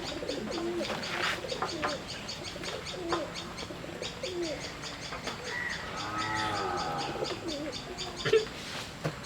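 Birds cooing and chirping in the background, with short, repeated low calls and a longer call of several tones about six seconds in.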